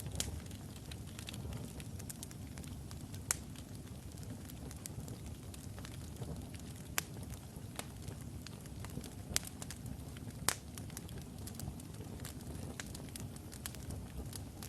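Logs burning in a fireplace: a steady low rumble of flames with scattered sharp crackles and pops, a few louder snaps at irregular intervals.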